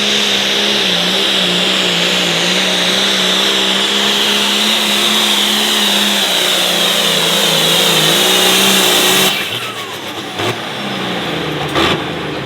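International 1066 hot farm pulling tractor's diesel engine running flat out under load during a pull, its pitch sagging and recovering about six to eight seconds in. The engine sound cuts off suddenly about nine seconds in as the run ends, leaving a few knocks.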